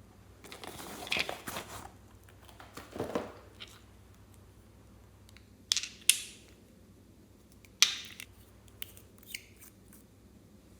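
Slime being handled and squeezed by hand: a couple of soft squishing stretches followed by several sharp crackling pops, typical of air pockets bursting in slime.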